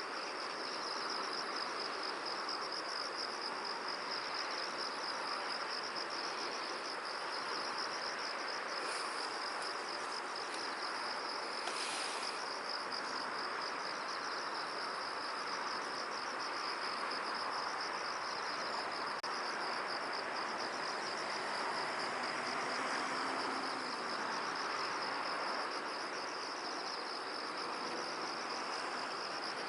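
Continuous cricket-like insect trilling, a fast pulsing high note that never stops, over a steady hiss of wind. A brief higher chirp stands out about twelve seconds in.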